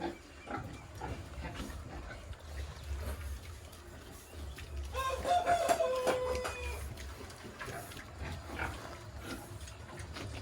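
A rooster crows once, about five seconds in, one long call lasting over a second. Scattered knocks and a low steady rumble run underneath.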